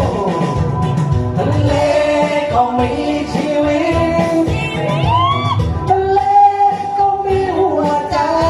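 A song: a voice sings long, held and gliding notes over instrumental accompaniment.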